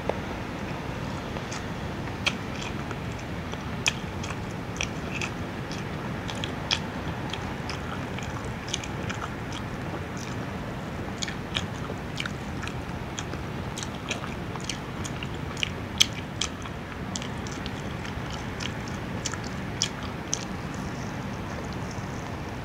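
Close-miked chewing and biting of fried chicken: irregular sharp wet clicks and smacks of the mouth over a steady low hiss.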